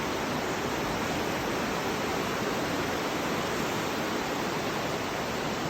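Steady rushing of the Aare river's water through the narrow Aareschlucht gorge, an even, unbroken roar of white water.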